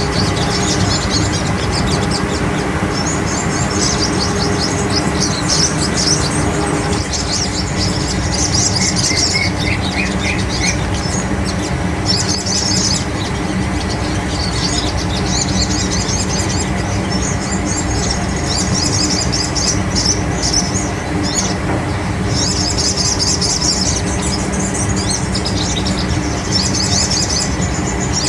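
Sogon bird song: bursts of rapid, high-pitched chirping trills, each a second or two long, repeated throughout, over a steady low hum.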